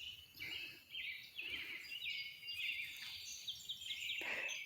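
Several small birds chirping in quick, short repeated notes. A few soft low sounds come in between them.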